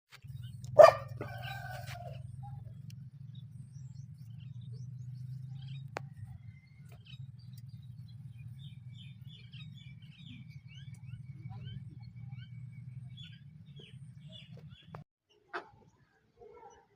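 Aseel chicks peeping faintly in short high chirps, with one loud call about a second in. A low steady hum runs underneath and cuts off about fifteen seconds in.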